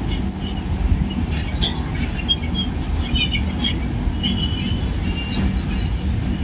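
Passenger coaches of an express train rolling along the station track: a steady low rumble of wheels on rail with a constant hum, and a few sharp clicks a second or two in.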